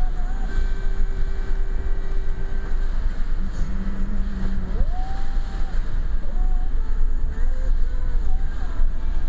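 Strong wind of an approaching typhoon buffeting the microphone as a loud, steady low rumble, with thin whistling tones that hold, then rise and fall.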